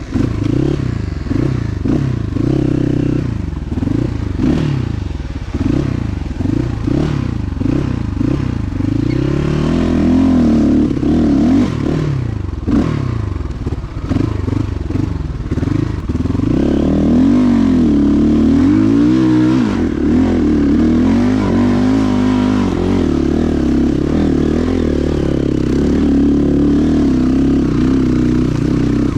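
Motorcycle engine revving up and down repeatedly in quick rises and falls, then holding higher, steadier revs from about halfway through.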